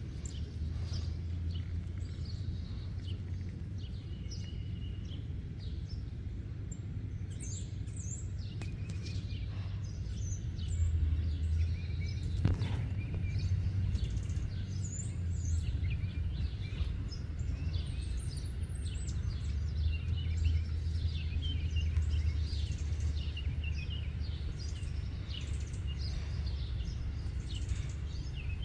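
Wild birds chirping and singing, many short high calls one after another, over a steady low rumble. A single sharp click about twelve seconds in.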